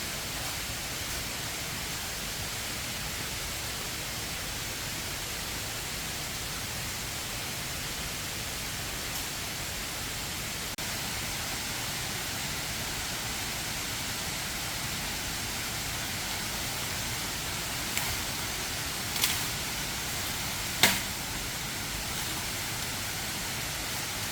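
Steady hissing rush of a waterfall. Three sharp clicks or knocks come near the end, the last one the loudest.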